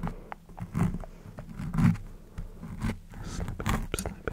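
Close-miked ASMR mouth sounds: irregular clicks and short noisy smacks, several a second.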